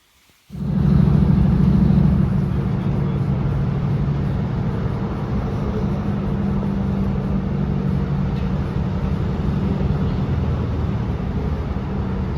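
Class 156 diesel multiple unit running, its underfloor diesel engine giving a steady low drone over a rumble, which starts abruptly about half a second in.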